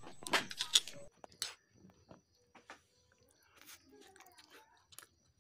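Close-up eating sounds of someone eating chow mein: quiet chewing with scattered small clicks and smacks. A brief louder burst of rustling comes in the first second.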